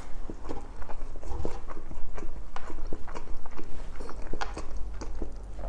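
Close-up chewing and biting with wet mouth smacks, an irregular run of short clicks and squelches as a mouthful of saucy pork belly adobo is eaten.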